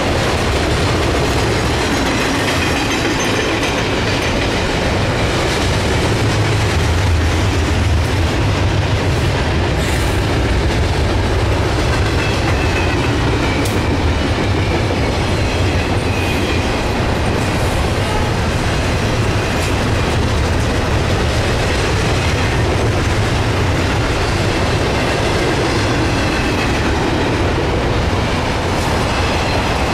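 Double-stack intermodal well cars rolling past at speed: a steady loud rumble of steel wheels on rail, with a few sharp clicks and a faint high whine at times.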